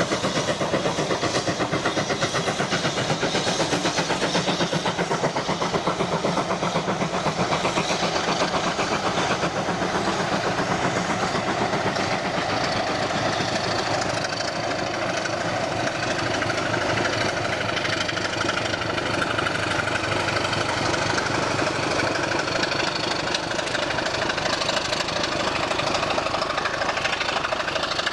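A passing train: a BR Standard 9F steam locomotive working at the head, coaches rolling by over the rails, and the steady running of the Class 25 diesel locomotive on the rear. The sound holds at one level throughout, with a fast, even rhythm.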